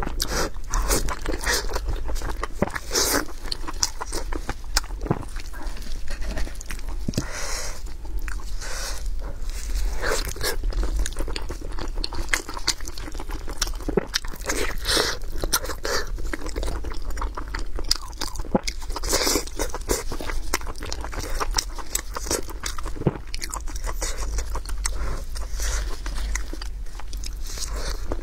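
Close-miked biting and chewing of pork head meat, with a steady run of irregular crunching and wet clicking sounds and no pauses longer than a moment, over a steady low hum.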